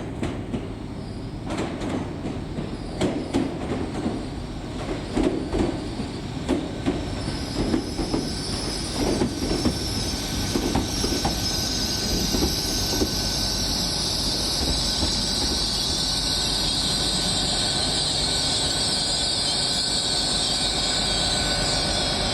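Hitachi Class 800 train running into the platform, its wheels knocking over rail joints for the first dozen seconds. A high-pitched wheel squeal builds from about a third of the way in and holds steady until it cuts off suddenly at the end.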